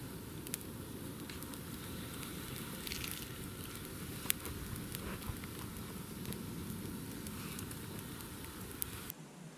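Wood campfire crackling, with scattered sharp pops, the loudest about four seconds in; the sound cuts off abruptly near the end.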